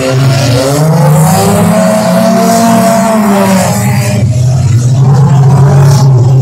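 Derby and bump-and-run cars' engines running loudly together, one revving up and back down over a few seconds early in the stretch before settling to a steady drone.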